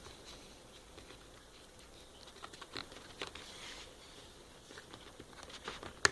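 Faint rustling and light taps of product packaging being handled and worked open, with a sharp click near the end.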